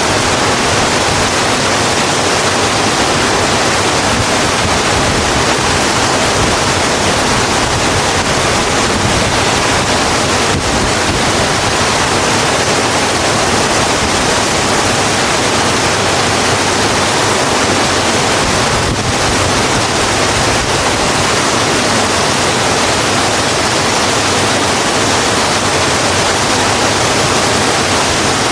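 Steady heavy rain falling on a road: a dense, even hiss.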